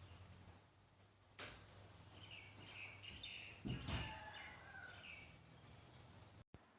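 Faint bird chirps over low background noise, with a low thump a little over halfway through.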